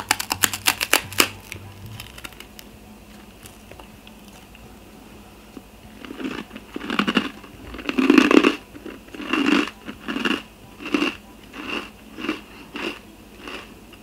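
A crisp rusk made from decorated bread crunching as it is bitten into, a quick run of sharp cracks in the first second or so. From about six seconds in, close crunchy chewing follows at one to two chews a second, loudest a couple of seconds after it starts.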